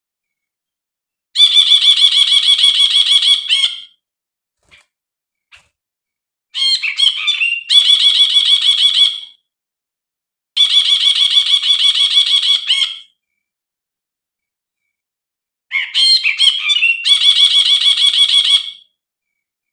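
Brinji (bulbul) calling in four loud bursts of rapid, evenly repeated chattering notes, each lasting two to three seconds with short pauses between. The second and fourth bursts open with a few quick varied notes. This is a brinji lure and tutor call of the kind played to stir caged brinji into song.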